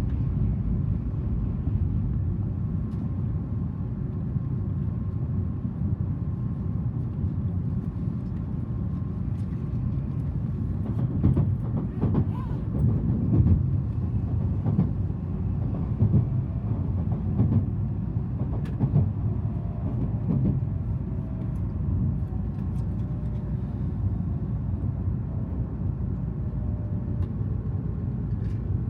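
Tokaido Shinkansen train running at speed, heard from inside the passenger cabin: a steady low rumble, with a run of knocks and thumps in the middle and a faint whine slowly falling in pitch near the end.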